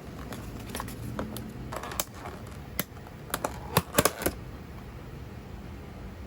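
A string of light, irregular clicks and taps, bunched most closely about four seconds in, over a steady background hiss.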